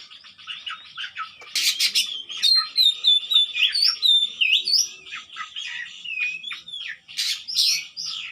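Oriental magpie-robin (kacer) singing a fast, varied song of quick chirps and whistled rising and falling notes, with a loud burst of sharp notes about one and a half seconds in.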